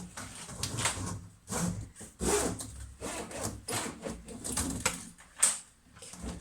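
Handling noises from fitting a hose clamp onto a washing machine's hose: irregular rubbing, scraping and small knocks, with one sharp click about five seconds in.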